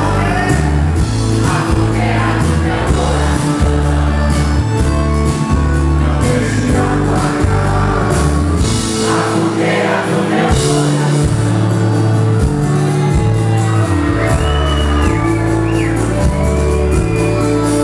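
A live sertanejo band plays with singing, amplified in a large room, and the crowd shouts and sings along.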